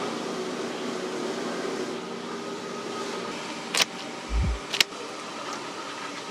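Steady mechanical hum, like a ventilation fan, with a sharp click a little under four seconds in, a short dull thud just after, and another click about a second later.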